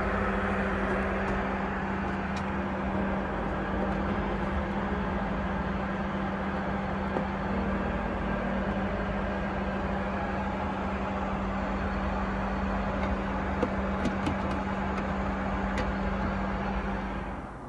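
Steady in-flight noise of a Boeing 767-300ER airliner, an even rush with a constant low hum; it drops in level near the end.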